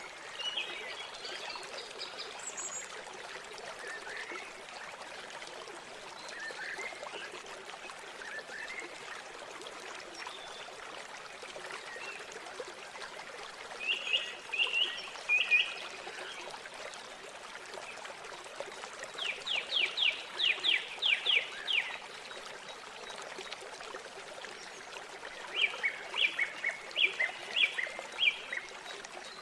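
River water flowing steadily, with birds calling over it: scattered chirps, a fast run of about ten notes about two-thirds of the way through, and a quick series of repeated notes near the end.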